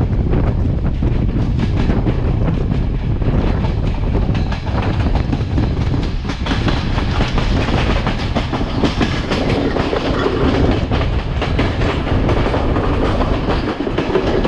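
Passenger train running at speed, heard from the side of a coach: a steady loud rumble with wheels clattering rapidly over the rail joints.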